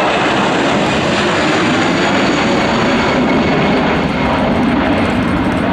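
Airliner engines running loud and steady as the aircraft passes close: a dense noise with no clear pitch.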